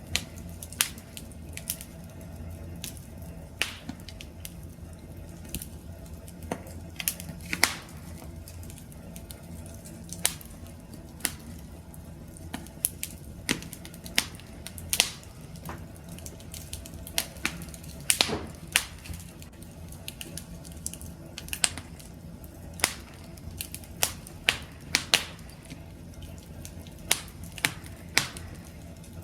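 Campfire wood fire crackling: irregular sharp pops and snaps, several a second at times, over a low steady rumble of burning.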